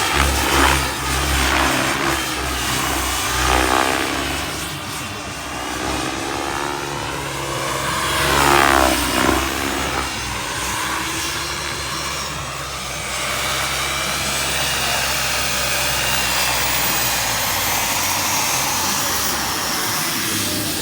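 Wren 45 kerosene turbine powering an RC helicopter in flight: a steady high turbine whine with the whoosh of the rotor blades. The sound swells and bends in pitch twice as the helicopter sweeps close past, about four and nine seconds in.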